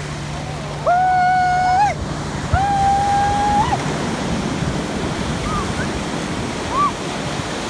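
Steady rush of ocean surf with wind. Over it come two long, high calls held level on one pitch, each bending upward at its end, followed by two short chirps.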